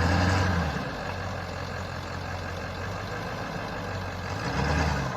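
Ford F-250's 7.3 L Power Stroke V8 turbo-diesel running at low trail speed in four-wheel drive, heard from inside the cab. The low engine drone swells briefly as the throttle opens, once near the start and again near the end.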